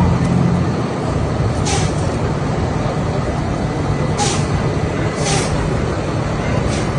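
City street traffic: a large vehicle's engine running steadily, with four short hisses like an air-brake release.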